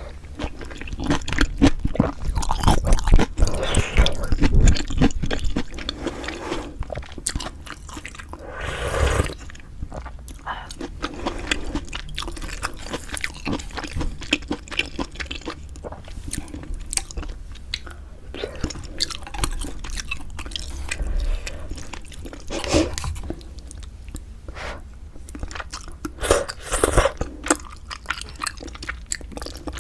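Close-miked eating sounds of Korean pork bone hangover soup with glass noodles: steady wet chewing and smacking, with longer slurps about nine seconds in and again near the end.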